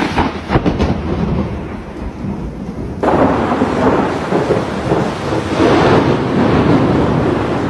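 Thunder: a clap breaks in suddenly with a few sharp crackles, then rolls on as a long rumble over rain. It grows louder again about three seconds in.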